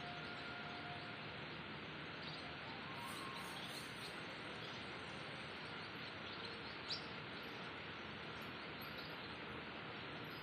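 Faint, scattered bird chirps over a steady outdoor background hiss, with one short, sharper chirp about two-thirds of the way in.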